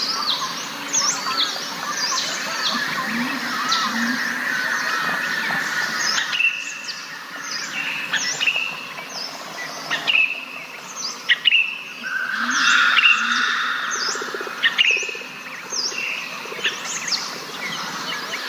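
Several wild birds chirping and calling together, with many short notes that sweep down in pitch and overlap one another.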